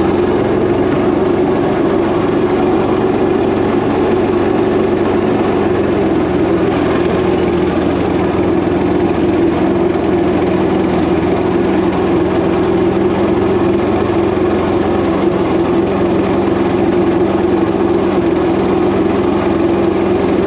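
Predator 212cc single-cylinder four-stroke engine driving a homemade mini jet boat, running at a steady speed with no change in pitch.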